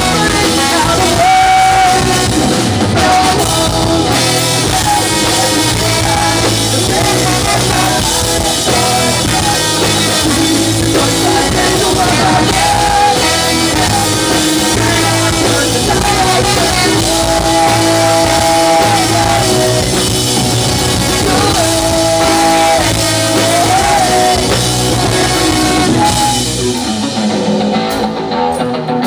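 Rock band playing live at full volume: electric guitars, bass and drum kit, with held melodic lines over the top. The sound thins out a little near the end.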